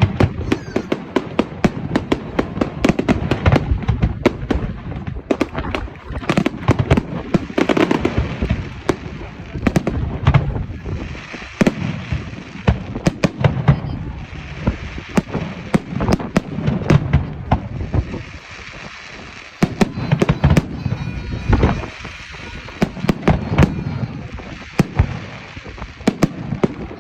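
Fireworks display: a dense, irregular barrage of bangs and crackling cracks from exploding shells, with crowd chatter underneath.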